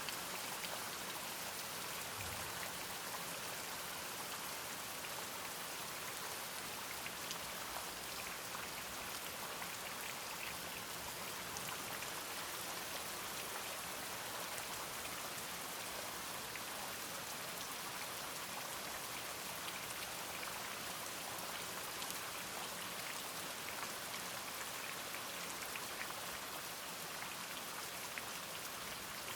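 Steady rain falling, with a dense fine patter of drops hitting a surface.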